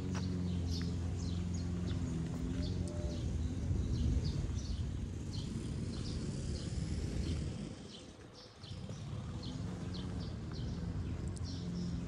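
Songbirds chirping and calling in many short high notes, over a low rumble that fades briefly about eight seconds in.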